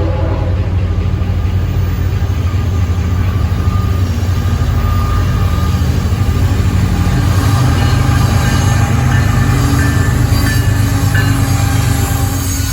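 A train passing close by, with a loud, steady rumble of wheels on rails and thin high-pitched squeals coming in partway through.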